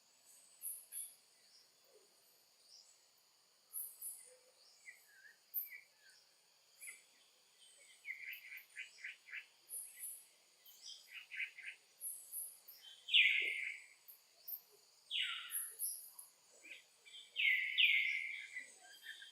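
Steady high-pitched insect drone, with short high chirps and squeaks over it that come sparsely at first and grow more frequent and louder in the second half.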